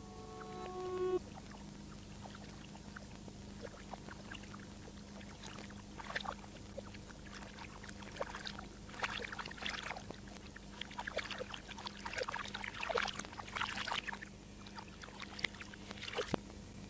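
Water sounds played backwards: irregular crackles and splash-like bursts over a steady low hum, coming thickest in the middle stretch. A few reversed music tones fade out in the first second.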